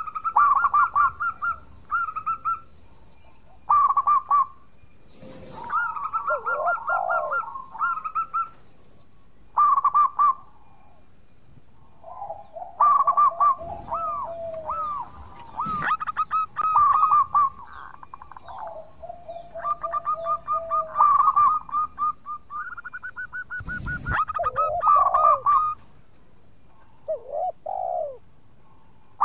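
Zebra dove (perkutut) cooing over and over in phrases of quick, rapid notes with short pauses between, some phrases lower-pitched than others. A few sharp knocks come in between phrases.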